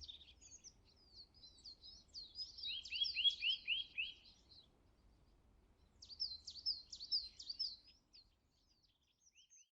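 Small birds chirping and singing in quick runs of high notes, including a series of about five falling notes around three seconds in, then a pause of about a second before another burst of chirps.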